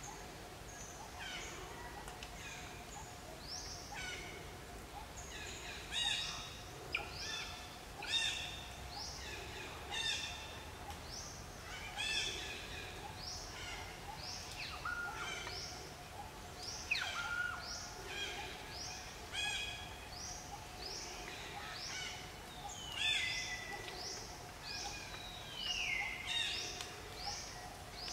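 Birds chirping and calling: many short, high chirps, some rising and some falling in pitch, over a faint steady tone.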